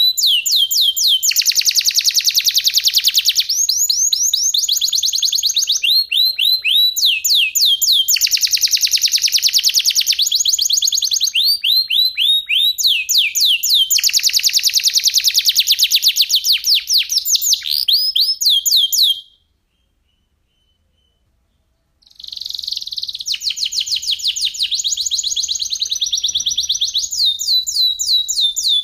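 Domestic canary singing long, fast rolls of repeated high notes in back-to-back phrases. It stops for about three seconds past the middle, then starts up again.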